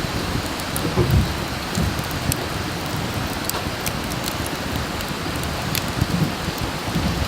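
Wood fire burning with a steady rush and frequent sharp crackles and pops.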